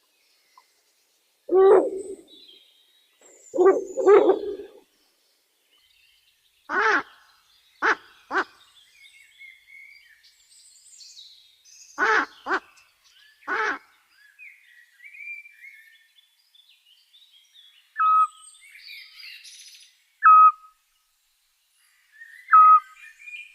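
Owls calling: three low hoots, then a series of sharper, higher cries, then three short high whistled notes about two seconds apart. Faint small-bird chirps run in the background.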